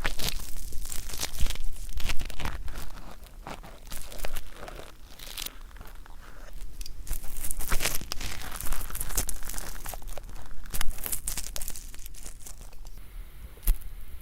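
Close-miked ASMR ear cleaning: an ear-cleaning tool scraping at dry earwax that is hard to dislodge, giving dense, irregular scratchy crackles close to the microphone. The scraping eases off for a moment a few seconds in, then picks up again.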